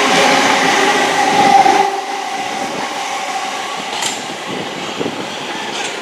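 A train running past on the rails, loud with a steady whine for about two seconds, then dropping to a quieter rolling noise with a couple of sharp clicks.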